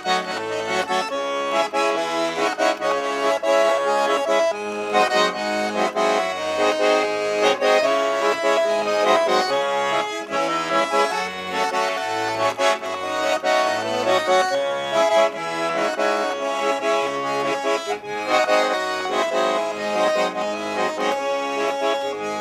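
Garmon (Russian button accordion) playing an instrumental introduction to a song, its melody over a rhythmic pulse of low bass notes.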